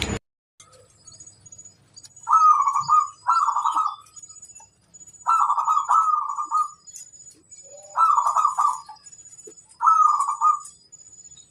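Zebra dove (perkutut) singing its trilled cooing song: about five loud phrases, each under a second, with short pauses between. Faint high chirps of small birds sound in the background.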